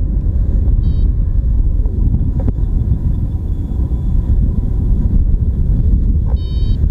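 Wind rushing over the microphone in flight, a steady low rumble. Short high electronic beeps of a flight variometer sound about a second in and again near the end.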